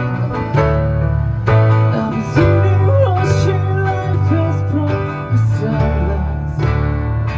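Live pop-rock band of acoustic guitar, bass, keyboard and cajon playing an instrumental passage without vocals: strummed guitar over bass notes that change about every second, with a melody line that bends in pitch in the middle.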